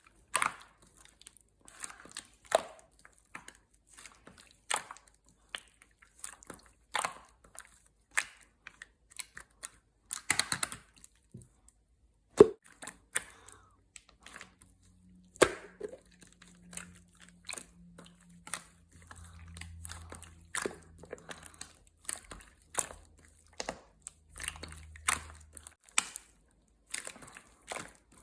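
Clear, colourless slime being squished and worked by hand, giving irregular sharp pops and clicks, several a second at times.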